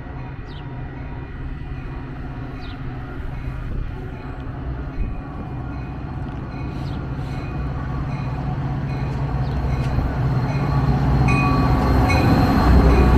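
Metra Union Pacific Northwest diesel commuter train arriving at a station, its rumble growing steadily louder as it nears. From about halfway through, a bell rings in repeated strikes, also getting louder.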